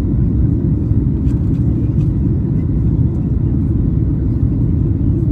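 Steady low rumble of engine and airflow noise inside the cabin of a Boeing 737 MAX 8 airliner.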